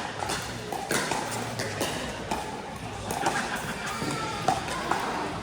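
Pickleball paddles popping against the plastic ball, a few sharp hits spaced seconds apart, echoing in a large hall over a background of voices and music.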